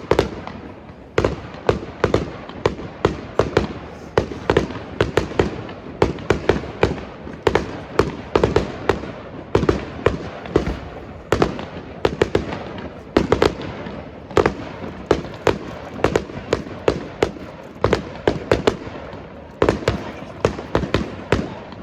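Fireworks display going off continuously, a rapid string of sharp bangs and crackles of shell bursts, several a second.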